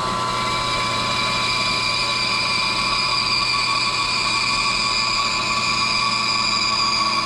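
Bandsaw running with its blade cutting through a wooden drawer block, slicing off a drawer face about 1/4 inch thick. A steady low hum under a high whine that shifts slightly in pitch during the cut.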